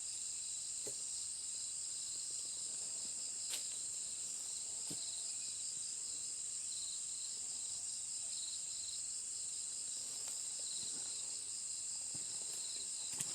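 Insects calling in a steady chorus: a constant high buzz with a faster pulsing trill beneath it. A few faint ticks come through, about one, three and a half and five seconds in.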